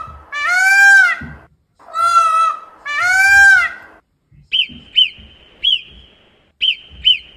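Indian peafowl (peacock) calling twice, each call a loud, pitched two-part wail whose second part rises and falls. About four and a half seconds in, a run of about six short, high, falling chirps over a thin steady tone follows.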